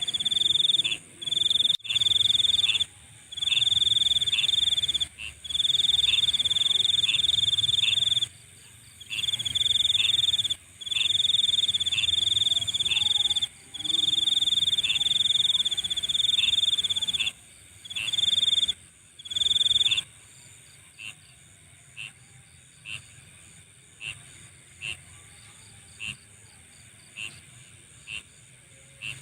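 Night insect chorus: a loud, high-pitched trill in bursts of one to two seconds with short gaps, which stops about two-thirds of the way through, over a steady fainter higher insect hiss. A short chirp repeats about once a second throughout.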